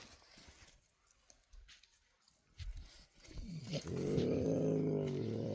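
A dog giving a long, low, drawn-out call that starts about three and a half seconds in and keeps going, after a few faint rustles and knocks.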